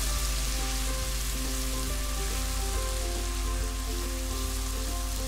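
Chopped onion and cumin seeds sizzling as they fry in olive oil in a pan, stirred with a wooden spoon, over soft background music.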